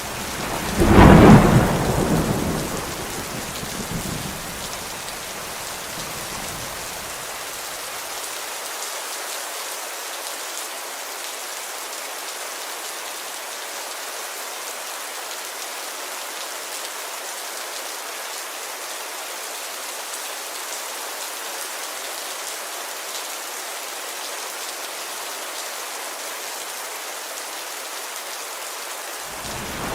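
Steady heavy rain hissing on a window. About a second in, a loud thunderclap rumbles away over several seconds, and another clap starts right at the end.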